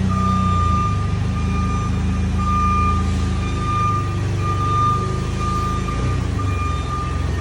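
A machine running steadily with a low engine-like hum and a high whine that drops out and comes back every second or so.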